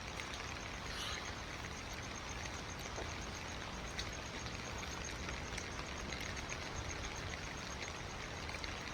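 Steady rain falling, an even hiss with a few scattered drops ticking.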